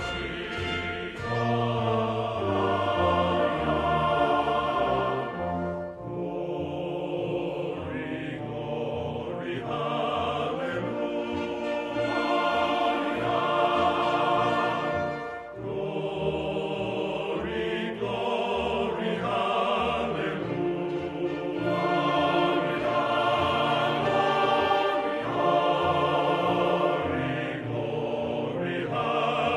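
Choir singing with an orchestra: held, stacked chords with no firework bangs standing out.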